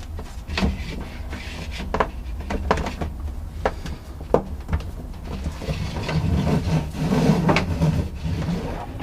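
Plastic water supply lines being pulled through a wooden cabinet chase: scattered knocks and clicks, then a longer stretch of rubbing and scraping about six to eight seconds in, over a low steady hum.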